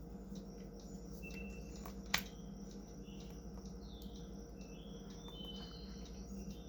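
Quiet room tone with a faint steady electrical hum, broken by a single sharp click about two seconds in, plus a few faint short high chirps and small ticks.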